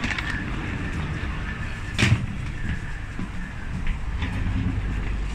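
Steady low background rumble with one sharp clatter about two seconds in and a few lighter knocks later.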